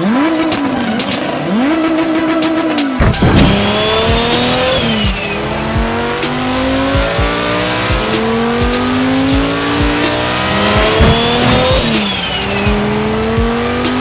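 A sports-car engine revved in quick blips, then, from about three seconds in, a Lamborghini Huracán's V10 accelerating hard through several gears, its revs climbing and dropping at each upshift.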